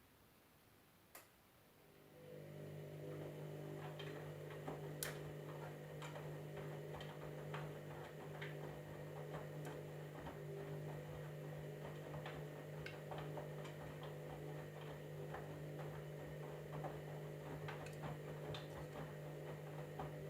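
Candy washing machine running: a single click, then about two seconds in a steady motor hum starts, with irregular light ticks over it, and stops abruptly near the end.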